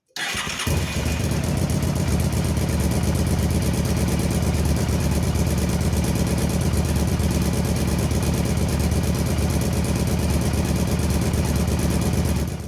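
Honda Varadero XL1000 V-twin motorcycle engine started, catching about half a second in, then running at a steady idle until it cuts off suddenly near the end.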